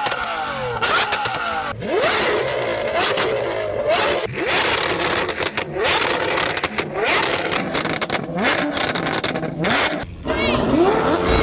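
Sports car engines with Gintani aftermarket exhausts revving and accelerating hard, the pitch climbing again and again, broken by many abrupt sharp cracks.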